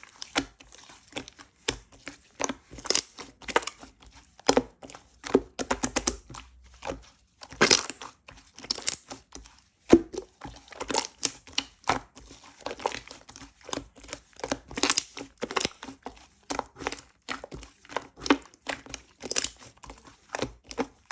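Strawberries and whipped cream worked by hand: close, irregular crinkling, crackling and squishing with many small clicks, coming in clusters.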